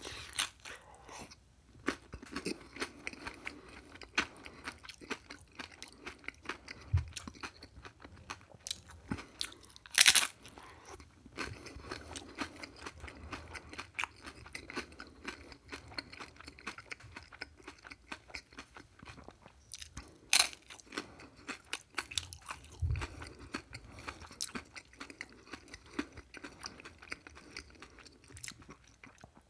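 Close-up crunching and chewing of crisp fried food: a steady run of crackly chews broken by a few loud, sharp crunching bites, the biggest about ten and twenty seconds in.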